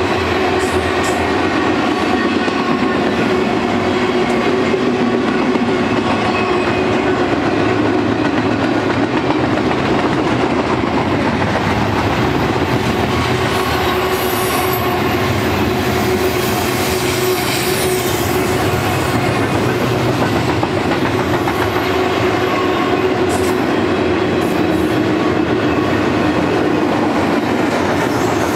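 Double-stack intermodal container well cars rolling past on steel wheels: a steady rumble and clatter of wheels on rail, with a continuous whine running through it.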